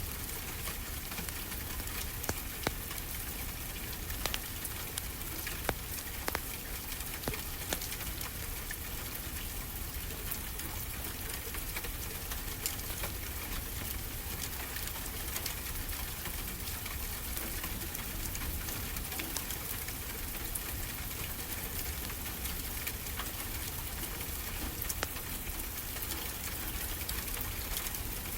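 Wood fire crackling, with scattered sharp pops, over a steady wash of ocean surf.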